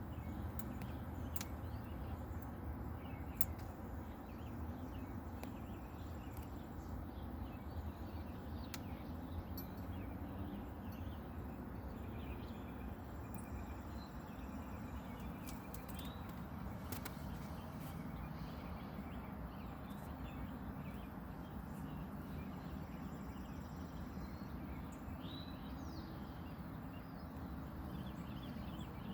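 Faint birds chirping here and there over a steady low background noise, with a few short clicks.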